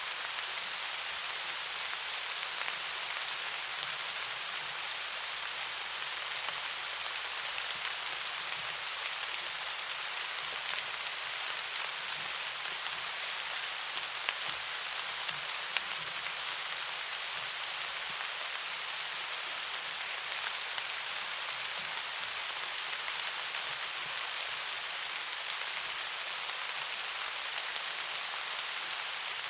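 Steady rainfall, an even hiss of rain on surfaces with a few sharper drop ticks scattered through it.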